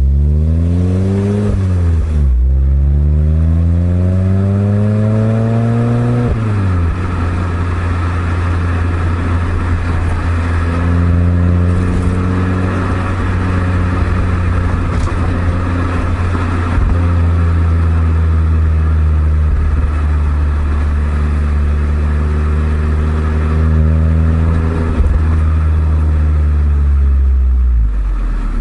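Exhaust of a Suzuki Swift Sport ZC32S's 1.6-litre four-cylinder through an eight-year-old Kakimoto aftermarket muffler, on the move. It revs up through a gear change about two seconds in, shifts again around six seconds in, settles to a steady cruise, and its pitch falls away near the end as the driver lifts off.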